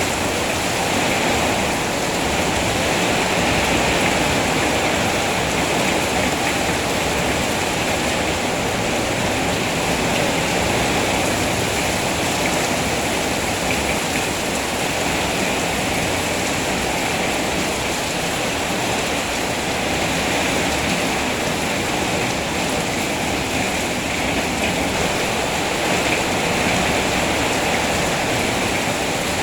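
Steady heavy rain, an even continuous rush of falling water with no breaks or single drops standing out.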